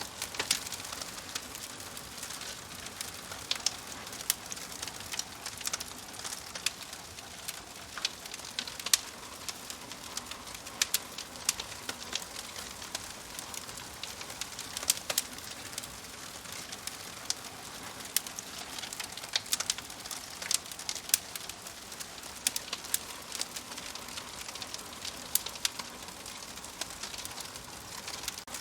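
Wood fire crackling in a fireplace: irregular sharp pops and snaps over a steady soft hiss of burning.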